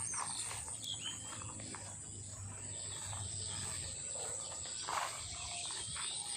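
Rural outdoor ambience: a steady high-pitched insect drone, with scattered short chirping calls and a low rumble underneath.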